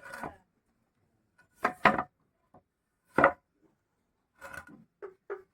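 Sharp knocks of a tool striking wood: a loud double knock about two seconds in, a single loud knock a second later, then a run of lighter, quicker knocks near the end.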